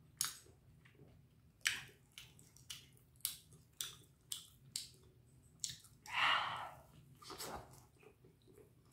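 Close-up chewing of a hot, crisp-coated rice hot dog: wet mouth smacks and clicks about every half second, with a short breathy puff about six seconds in.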